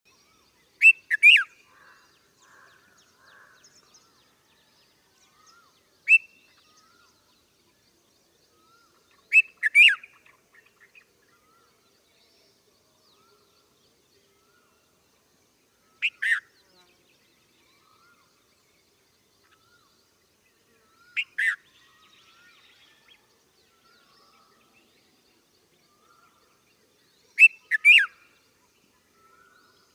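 Bulbul calling: six short, loud phrases of two or three quick notes, repeated about every five to six seconds, with faint chirps of other birds in between.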